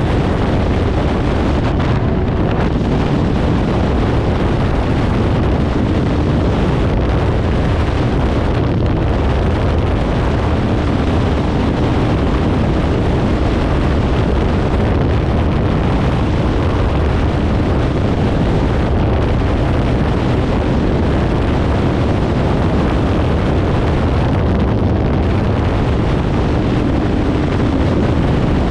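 Kawasaki Ninja 500 parallel-twin engine running through a Leo Vince aftermarket exhaust while the bike is ridden, steady and loud, with wind noise on the microphone.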